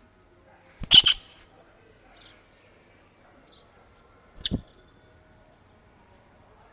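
A kingfisher in the hand gives two short, harsh call bursts, about a second in and again near the middle. The second has a low thump under it, and faint high chirps come between them.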